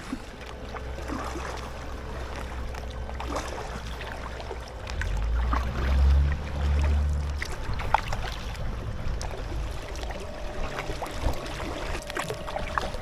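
Water splashing and trickling around an inflatable kayak moving along a canal, with scattered small splashes and a low rumble that swells about five seconds in and eases off again about two seconds later.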